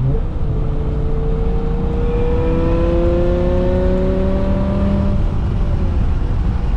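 BMW E60 M5's S85 V10, its exhaust straight-piped, pulling hard under acceleration: the engine note climbs steadily for about five seconds, then drops away as the throttle eases off. Heard from inside the cabin with the windows down, over road and wind noise.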